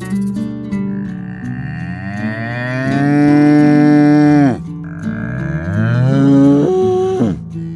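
A large animal, such as a cow or bison, gives two long, drawn-out mooing calls, the first lasting about three and a half seconds and the second shorter. Each call rises in pitch and then drops away at its end. Guitar background music plays underneath.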